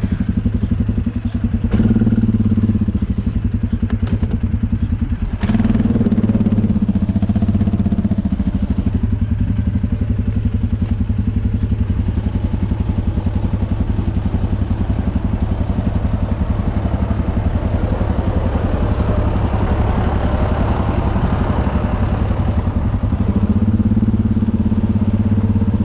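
U650 tractor's diesel engine running steadily at low revs, with a couple of short knocks in the first few seconds.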